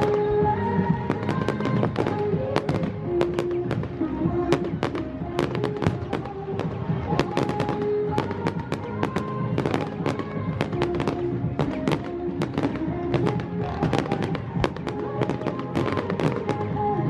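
Fireworks going off in rapid succession, many sharp bangs and crackles a second, over music with held notes.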